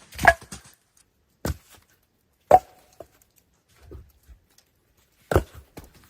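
Ice being chopped and broken: four hard, sharp strikes at uneven intervals, with lighter knocks in between.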